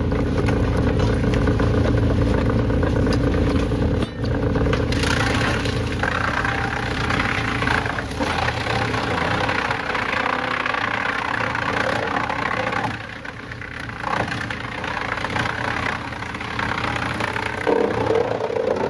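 Heavy machinery with engines running steadily, with some clatter. The sound changes abruptly about four seconds in and drops briefly near thirteen seconds.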